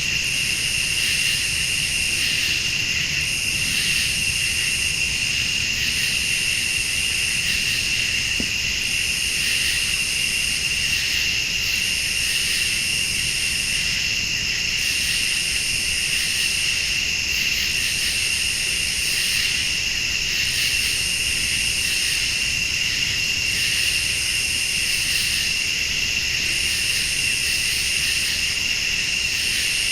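Night chorus of crickets and late-summer insects: a steady high trill, with another insect call above it pulsing on and off about every two seconds.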